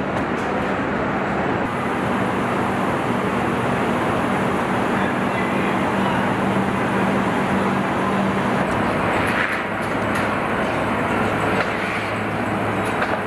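Steady mechanical noise of a vehicle assembly line. A low hum runs through it and shifts lower in pitch about nine seconds in.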